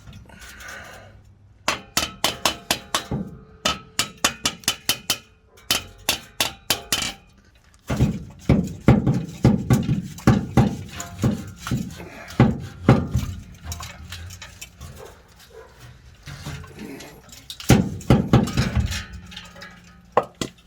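Metal clinking and clanking from the rusted 4-inch exhaust pipe and muffler being worked on: a run of quick, light clinks a few times a second, then heavier, irregular clanks and knocks from about eight seconds in.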